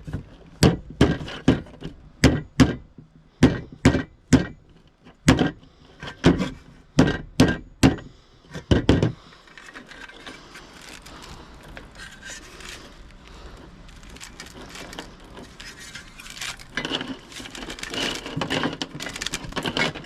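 Repeated hard strikes on scrap during a teardown, about two a second, stopping about nine seconds in. After that comes quieter continuous handling and rustling that grows louder toward the end.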